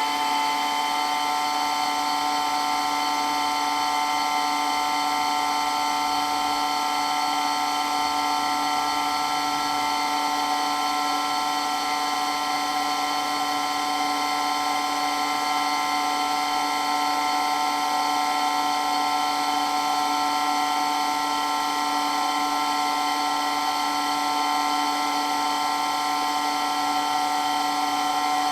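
Water pump for a water blaster running steadily with a very loud, constant whine that holds the same pitch throughout.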